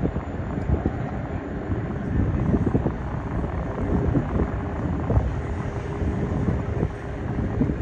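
Aircraft engine noise from a flying display, a low rumble with gusts of wind buffeting the microphone; a faint steady engine tone comes in during the second half.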